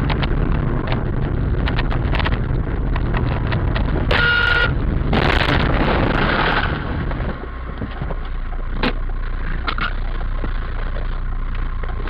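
Steady car road and engine noise, with a short car-horn honk about four seconds in. Right after it comes a louder rushing noise that lasts about a second and a half.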